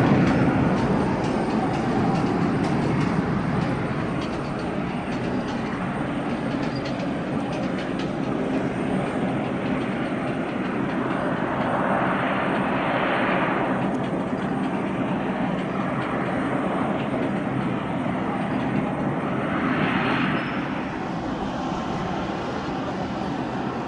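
Jet airliner engines at takeoff power, a steady rushing rumble that is loudest at first and slowly fades as the aircraft climbs away, with two brief swells in the mid range about twelve and twenty seconds in.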